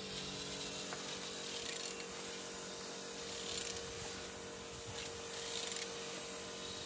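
Renault K9K 1.5 dCi diesel engine being turned over by hand, with steady rubbing and mechanical noise from the crankshaft and internals as it rotates; it turns freely.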